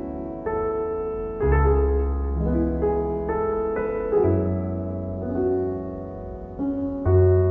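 Background piano music, slow and gentle, with sustained chords and deep bass notes changing every second or two.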